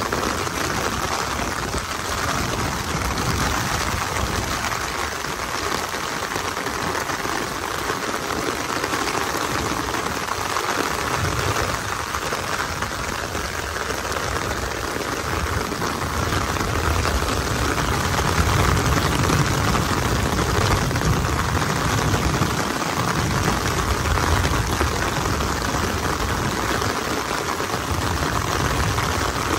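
Heavy rain falling steadily on wet ground and standing floodwater, an even hiss. A low rumble comes and goes under it through the second half.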